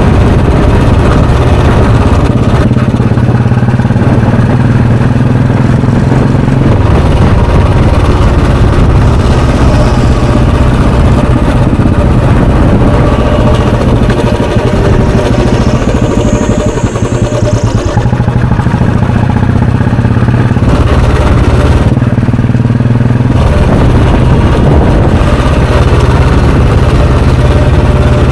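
Royal Enfield Bullet 350's single-cylinder, air-cooled four-stroke engine and exhaust running under way, its note shifting a few times during the ride.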